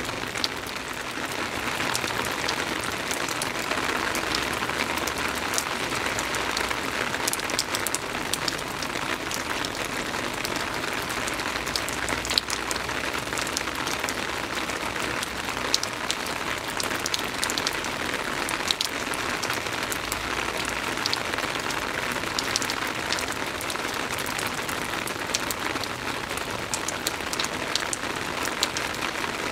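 Soft rain falling steadily on a surface, an even hiss with many scattered sharper drop ticks.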